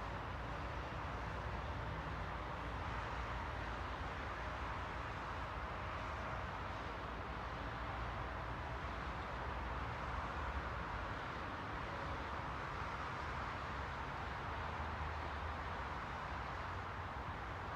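Steady, unchanging rushing noise with a low rumble underneath, a continuous white-noise track.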